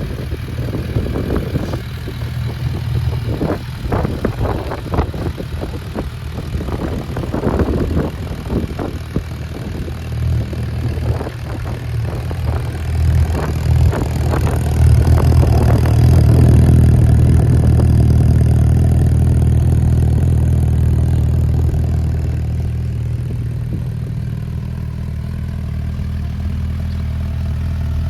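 Suzuki GSF650S Bandit's 656 cc inline-four engine running through a Black Widow aftermarket exhaust with the dB killer fitted. It runs steadily, grows louder about halfway through, then eases back to a steady run.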